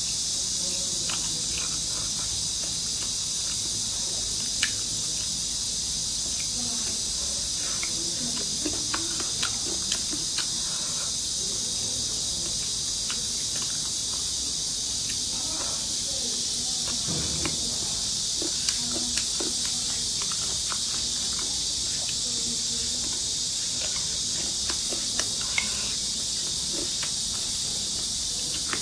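Steady, high insect chorus of crickets, with scattered sharp clicks and taps from eating.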